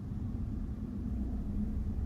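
Steady low rumble of a moving bus heard from inside, with engine drone and road noise.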